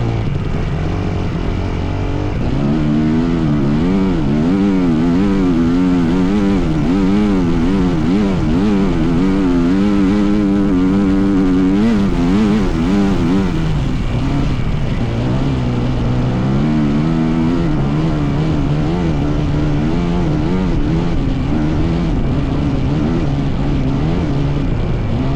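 Dirt bike engine running under load, its pitch wavering up and down a couple of times a second as the throttle rises and falls. It climbs to a higher pitch a few seconds in and drops back lower a little past halfway.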